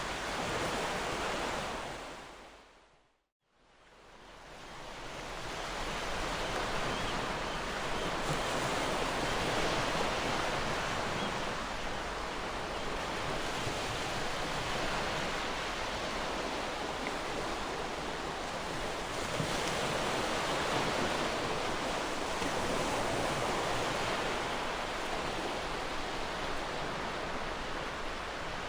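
Gentle ocean surf washing in as a steady hiss with slow swells. About three seconds in it fades out to a moment of silence, then fades back in over the next two seconds or so.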